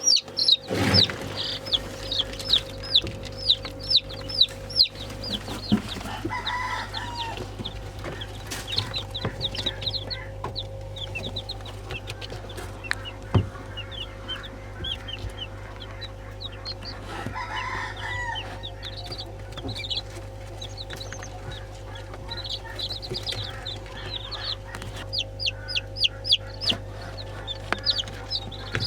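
Chickens calling: quick high chirps in clusters throughout, with two longer calls about six and seventeen seconds in, over a steady low hum.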